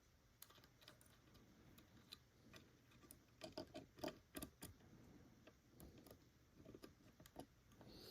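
Faint, scattered light clicks and taps of small plastic parts of an HO scale model locomotive being handled and fitted together by hand.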